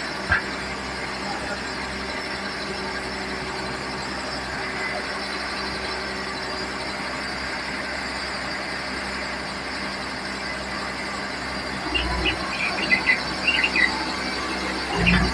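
Komatsu D31P bulldozer's diesel engine running steadily. About twelve seconds in comes a low thump, then a run of irregular high squeaks.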